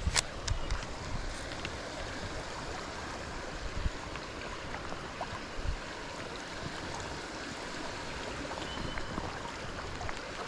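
Creek water flowing with a steady rushing, with a few sharp knocks in the first second or so.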